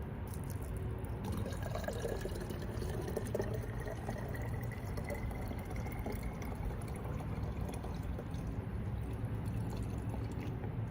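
Rainwater being poured into a plastic jar, a thin tone rising steadily in pitch for several seconds as the jar fills.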